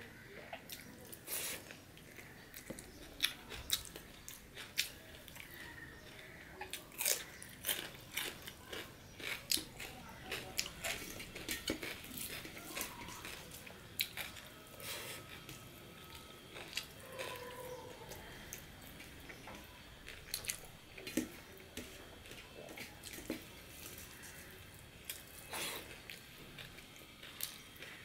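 Close-miked eating sounds of a man eating rice and curry with his fingers: chewing and wet mouth smacks, with many irregular sharp clicks.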